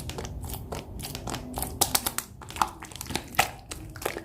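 Hands handling small objects: irregular clicks and taps with some crinkling, a few taps ringing briefly.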